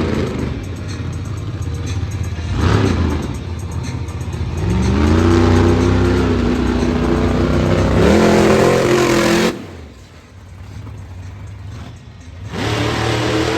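Monster truck engine revving hard in repeated runs. The pitch climbs and holds about a third of the way in and again shortly after, then cuts off sharply and picks up again near the end.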